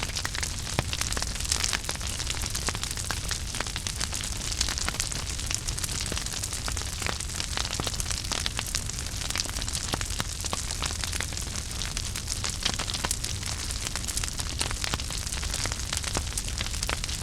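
Wood fire burning in a fireplace: a steady hiss and low rumble with frequent irregular crackles and pops.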